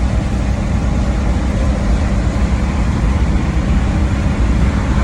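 Semi truck's diesel engine and road noise while driving, a steady low drone with a faint hum.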